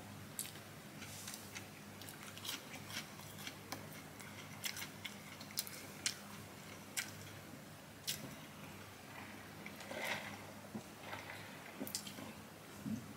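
Chewing crunchy fast food and handling its paper and cardboard packaging: scattered small crackles and clicks over a faint steady low hum.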